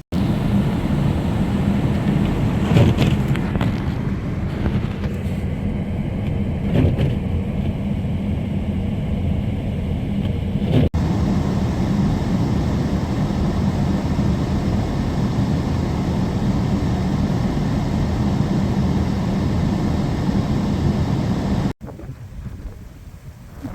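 Strong wind blasting across the microphone: a loud, steady low rumble with a few gusts, broken by two abrupt cuts.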